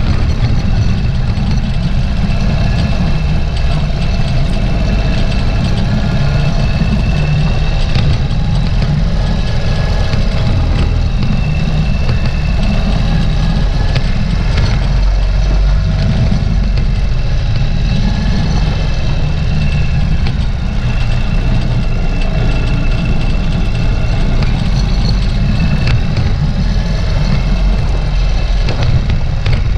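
Ural sidecar motorcycle's air-cooled flat-twin engine running steadily as the rig rides through snow, under a heavy low rumble of wind on the camera's microphone.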